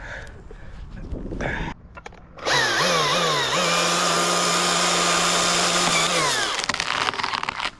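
Chainsaw starting about two and a half seconds in, revved up and down a few times, then held at a steady high speed for about three seconds before it drops off. A brief crackling follows near the end.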